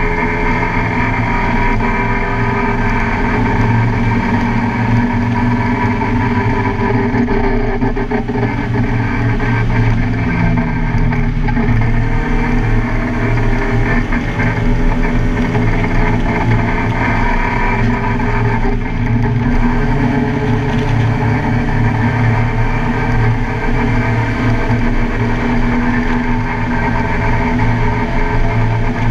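Car engine running continuously under load while driven on a race track, its note shifting in pitch a couple of times as the revs change.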